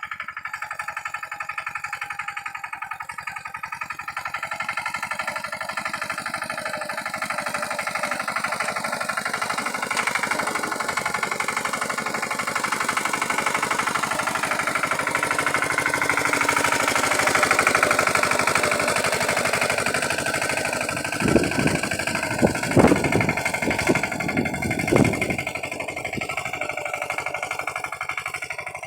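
Lombardini engine of a Pasquali 946 tractor running with a fast, even beat, getting a little louder toward the middle. Several loud thumps come about three-quarters of the way through.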